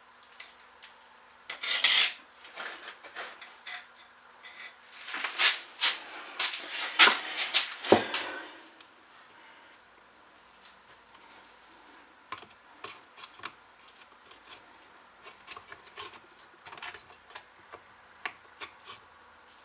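Hand work on small chainsaw parts and tools at a workbench: scattered clicks, taps and rubbing, busiest in the first half. Later a faint, even ticking runs about twice a second.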